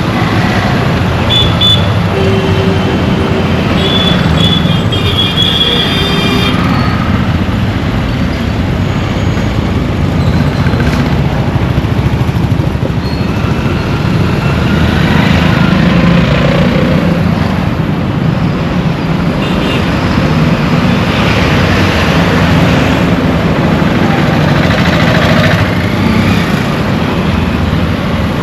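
Busy road traffic heard from a moving vehicle: a steady rumble of engines and tyres. Short pitched tones, typical of horns, sound several times in the first six seconds or so.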